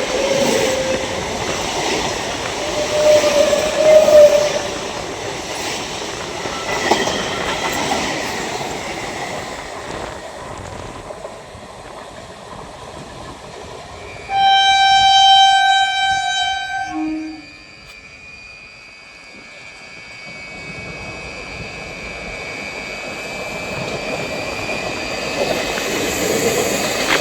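Indian Railways train clattering over the rails, loudest about four seconds in and then fading away. Midway a single long train horn blast sounds for about three seconds and cuts off, after which the rumble of another train slowly grows louder.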